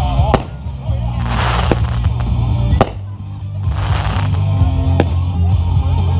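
Fireworks going off, with about four sharp bangs and short bursts of crackling hiss, over loud music with a heavy, steady bass line.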